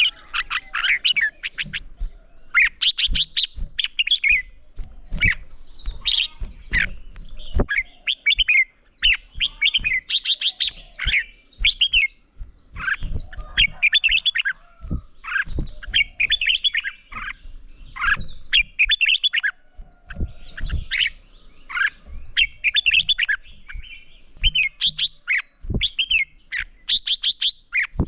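Red-whiskered bulbul singing competitively: a steady run of short, rapid, warbling phrases with brief pauses between them, some broken by fast clicky trills. Occasional low knocks sound under the song.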